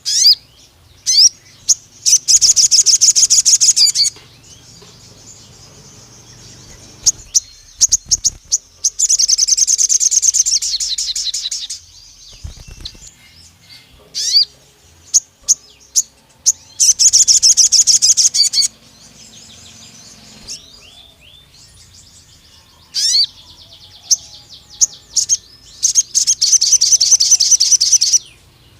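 Sogon sunbird singing: short rising high chirps between four long, rapid, high-pitched trills of two to three seconds each, the long 'nembak' song bursts used as a lure to provoke other sogons.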